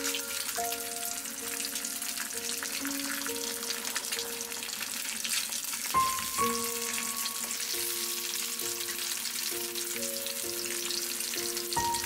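Sausages and an egg frying in oil in a nonstick frying pan, a steady crackling sizzle. A slow, gentle melody of single notes plays under it.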